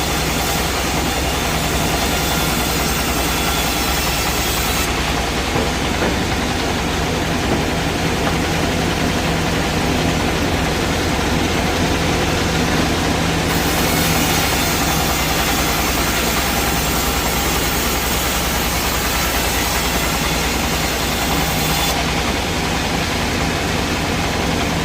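Sawmill machinery running steadily, a loud continuous mechanical noise with a low steady hum underneath; the highest part of the sound drops away for several seconds twice.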